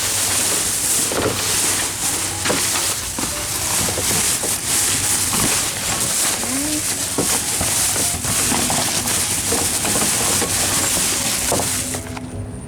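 Steady rustling and crinkling of plastic bags and loose trash being rummaged through in a dumpster.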